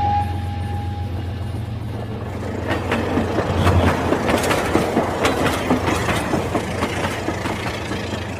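Rail King toy train running, with a steady low motor hum and a dense clatter of clicks that builds about three seconds in and eases off near the end. A thin tone fades out in the first second or so.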